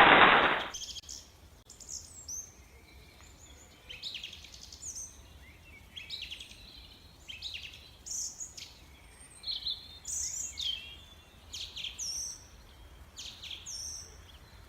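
A bird calling: a string of short, high chirps at uneven intervals, many of them sliding down in pitch.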